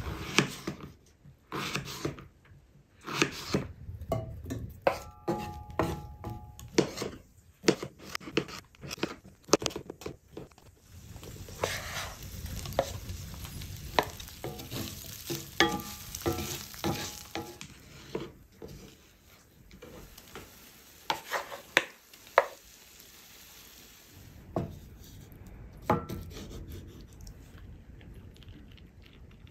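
Sausage slices and potatoes sizzling in a cast iron skillet, with repeated clinks and scrapes of a utensil and dish against the pan.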